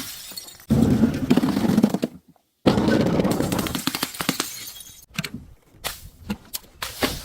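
Glass breaking and crunching in two bursts, each starting suddenly and trailing off, with a short dead-silent gap between them; scattered sharp clicks follow near the end.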